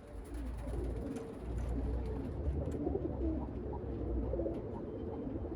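Domestic pigeons cooing, many overlapping coos, over a low rumble of wind on the microphone.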